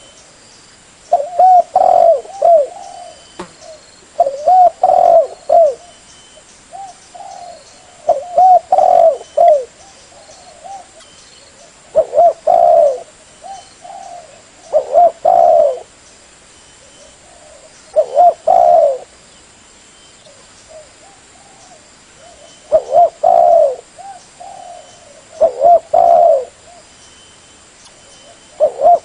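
Spotted dove (tekukur) cooing: phrases of several low coos repeat every three to four seconds, with short pauses between them.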